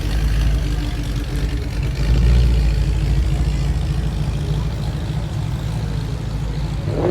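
Car engine running with a deep, pulsing low rumble that swells briefly about two seconds in.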